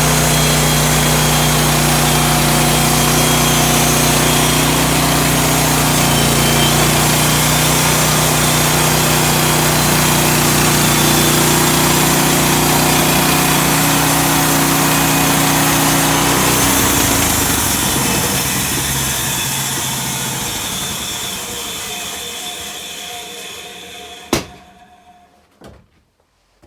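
Woodland Mills HM130 band sawmill running steadily, engine and band blade at work. About two-thirds of the way in the engine note stops and the rest of the sound winds down over several seconds, as the blade coasts to a stop. A single sharp clack follows near the end, then a couple of faint clicks.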